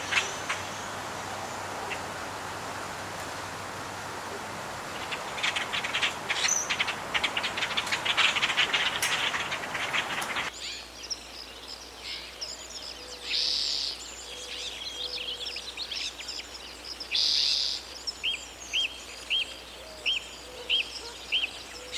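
Wild birds chirping and calling over a steady rushing noise that stops abruptly about halfway through. After that, separate calls stand out, and near the end one bird repeats short upswept chirps about twice a second.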